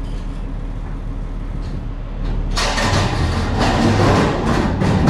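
A vehicle engine running steadily at a low hum. About halfway in, a louder, rougher noise comes in on top of it.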